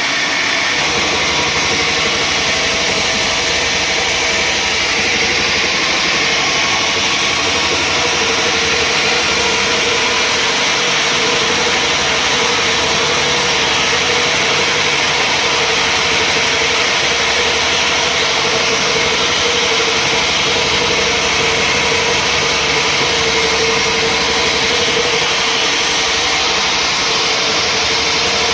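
Sawmill machinery running steadily and loud, a constant hum under a wide hiss that holds level throughout.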